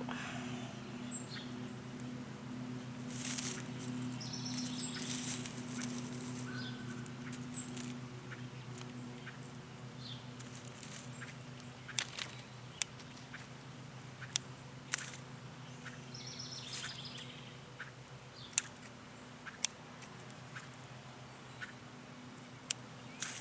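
Rustling and sharp clicks of plants being handled, over a steady low hum, with a few short bird chirps.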